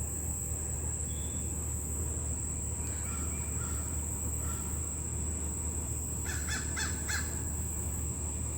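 Crow cawing in the background: a few faint caws a few seconds in, then a quick run of about five caws near the end.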